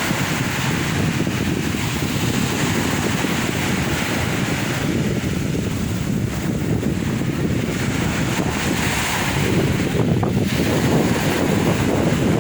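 Sea waves washing and breaking on the shore in a steady, continuous surge, with wind buffeting the microphone.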